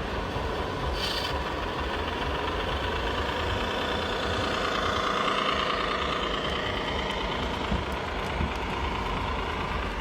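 Scale RC model truck idling steadily, with its diesel engine sound played through a small on-board speaker. A whine swells and fades in the middle, and there are two small clicks near the end.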